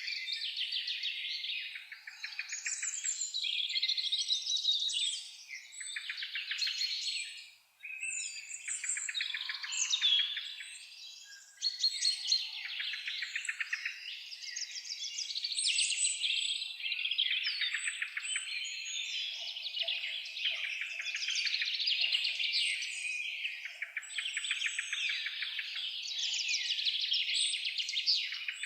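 Several songbirds singing at once in a dense, nearly unbroken chorus of rapid trills and chirps, with a short lull about a third of the way in.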